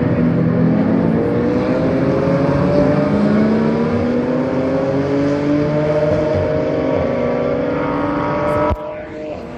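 GT race car engines running hard on track, their pitch climbing slowly as they accelerate. The sound drops off suddenly near the end.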